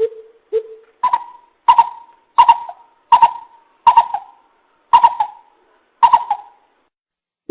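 Coucal (bìm bịp) lure call: a series of about nine deep, hollow hooting notes. The first two are lower and the rest step up in pitch, coming a little under one and a half a second, with the gaps widening toward the end.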